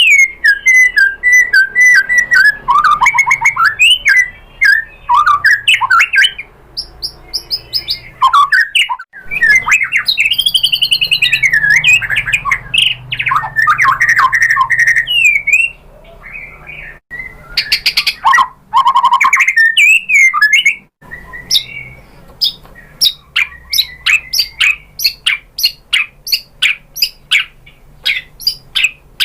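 White-rumped shama singing a loud, varied song of slurred whistles, fast trills and harsh chatter, broken by a few abrupt gaps. Near the end it turns to a fast series of sharp ticking notes.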